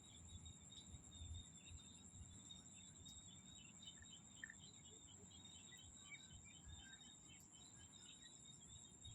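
Faint chorus of insects trilling steadily at a high pitch, with rapid pulsing chirps and a few scattered short calls from small frogs and birds, over a soft low rumble.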